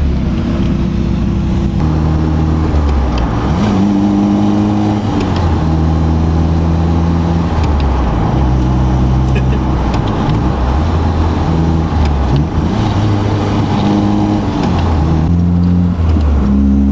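Nissan 240SX engine heard from inside the cabin while driving. Its note steps up and down several times as the gears are worked through during the break-in of a newly installed clutch.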